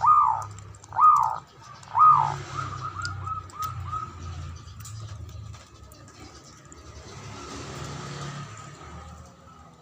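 Zebra dove (perkutut) cooing: three loud, arched coos about a second apart, then a quick run of shorter, softer notes that trails off about four seconds in.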